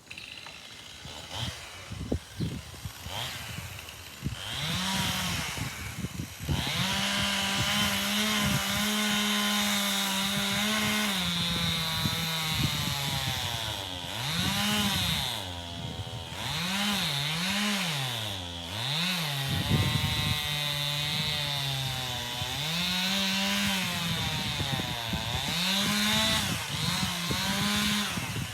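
Chainsaw cutting into an ash tree trunk. After a few sharp knocks in the first seconds, the saw runs at high revs from about five seconds in, and its pitch repeatedly sags and recovers as the chain bogs in the cut.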